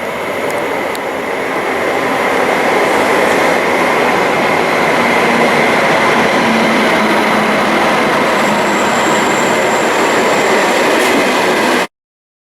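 A train running on the rails through a station: a steady rushing noise of wheels on track that grows a little over the first couple of seconds. A thin high squeal joins about two-thirds of the way in, and the sound cuts off suddenly.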